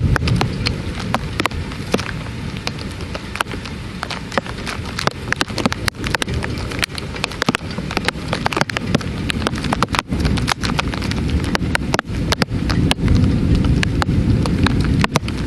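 Heavy rain during a thunderstorm, with many sharp drops striking close by. A deep low rumble runs underneath and grows louder near the end.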